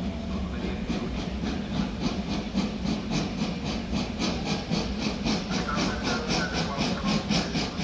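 A train at the station making a quick, even rhythm of hissing strokes, about four or five a second and growing stronger, over a steady low rumble.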